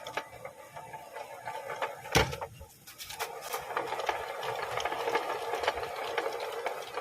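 Harsh mechanical grinding and rattling, a rasping noise packed with rapid clicks and one sharp knock about two seconds in, getting stronger after about three seconds: the grinding of a vehicle transmission.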